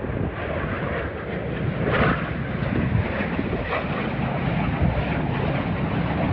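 Jet aircraft noise from the Frecce Tricolori's Aermacchi MB-339 aerobatic jets: a steady, loud rush without a clear tone.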